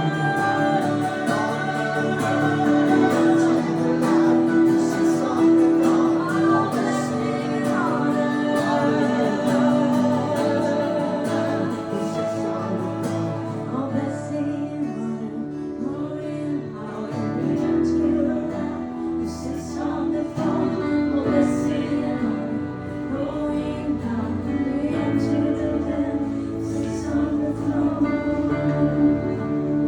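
Live acoustic worship music: voices singing long held and sliding notes over guitar accompaniment, with deeper bass notes entering about halfway through.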